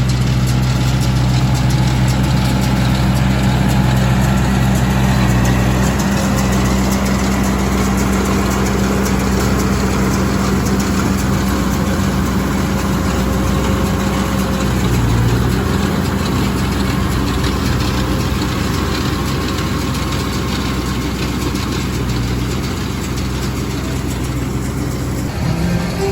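Farm tractor engine running steadily with an even, unchanging low hum.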